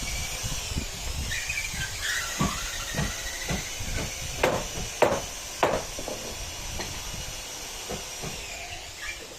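Irregular knocks of hammer blows on wood, with three loud strikes in quick succession in the middle, over a steady hiss and low rumble.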